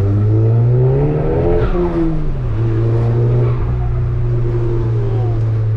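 Volkswagen Golf GTI Mk7's 2.0-litre turbocharged four-cylinder accelerating hard, heard from inside the car: the engine note rises for about a second and a half, drops at a gear change, then pulls on steadily.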